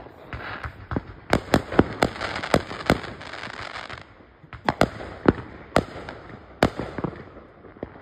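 Aerial fireworks bursting: more than a dozen sharp bangs. They come in a quick run in the first three seconds, then more spaced out after a short lull.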